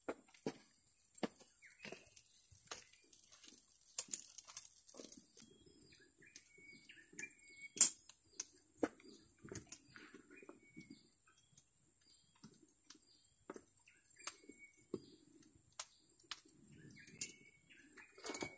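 Faint scattered clicks and knocks, with a few short bird chirps and a steady thin high-pitched tone behind them.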